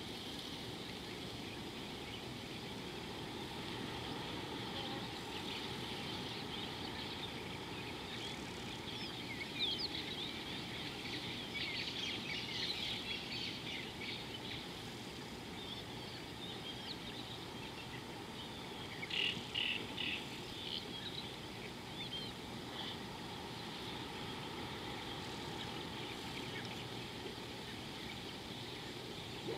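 Birds chirping over a steady outdoor background hiss, with a cluster of quick high chirps about ten seconds in and another about twenty seconds in.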